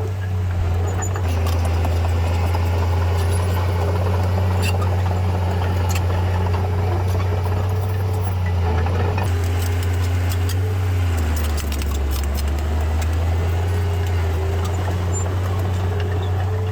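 Heavy earthmoving machine's diesel engine running steadily with a deep hum, its note shifting lower about eleven seconds in, with scattered faint clanks.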